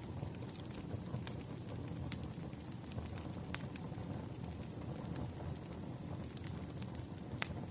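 Firewood burning: a steady low rumble from the fire with sharp crackles and pops about once a second, the loudest pop near the end.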